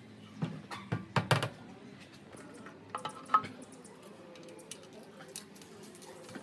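Light knocks and clicks of hard parts being handled: a quick cluster in the first second and a half, another pair about three seconds in, then a few faint ticks.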